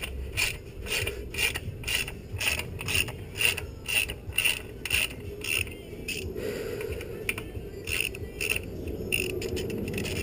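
Hand socket ratchet turning a fastener, its pawl clicking in short runs about twice a second as the handle swings back and forth. The clicking pauses about six seconds in and resumes near the end. It is loosening a bolt to take a part off the motorcycle.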